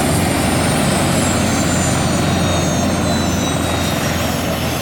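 Military helicopter turbine engines running on the ground: a steady loud drone with a high turbine whine that glides slowly down in pitch. The engines have just been started.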